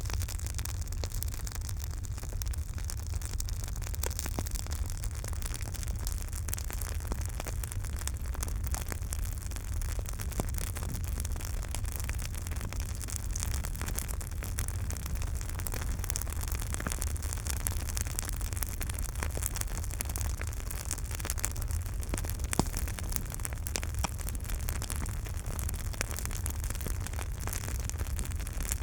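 Campfire burning: a steady low rumble and hiss with frequent small crackles and pops of burning wood, one sharper pop about three-quarters of the way through.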